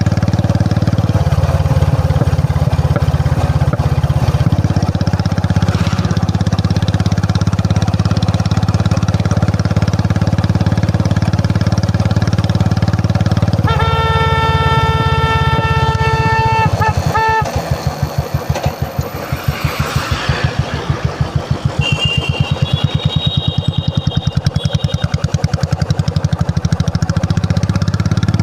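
Royal Enfield Classic 350's single-cylinder engine running. In the second half its separate exhaust beats come through as a regular pulsing thump. A steady horn-like tone sounds for about three seconds around the middle, and a short high tone follows a few seconds later.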